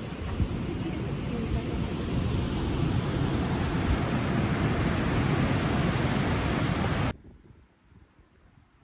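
Heavy ocean surf crashing and churning, with wind buffeting the microphone; it swells over the first few seconds and cuts off suddenly about seven seconds in.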